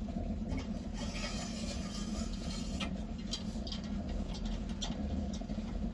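Light clicks and small rattles of bench drill parts being handled and adjusted, a few sharp ticks between about three and five seconds in, over a steady low hum.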